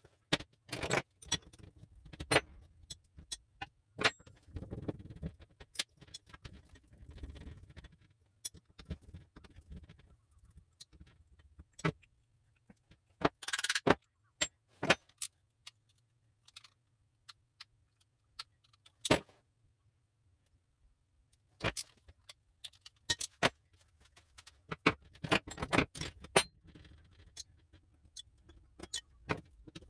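Metal parts and hand tools clinking and knocking in irregular clusters, with a short scrape about halfway through.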